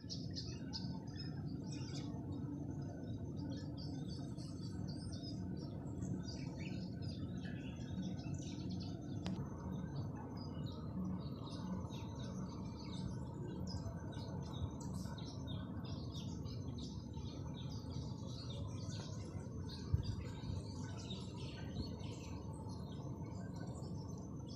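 Many small birds chirping and calling over one another in a dense chorus, over a steady low background rumble, with a single knock about twenty seconds in.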